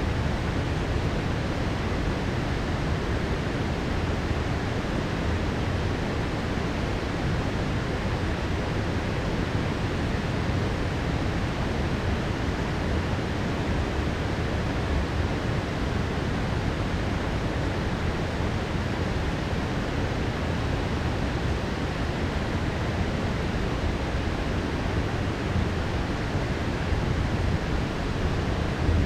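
Heavy rain pouring steadily, an even unbroken wash of noise with no thunderclap in it.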